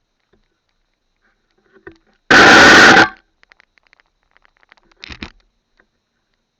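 A vehicle horn honking once, short and very loud, about two seconds in, with faint knocks near the end.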